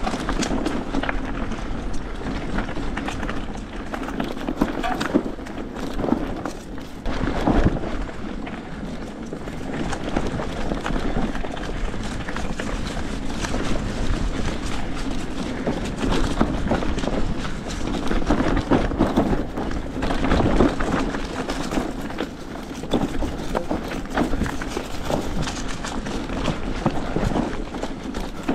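Hardtail mountain bike ridden over a bumpy dirt trail with tree roots: steady tyre and trail noise with repeated knocks and rattles as the bike jolts over bumps.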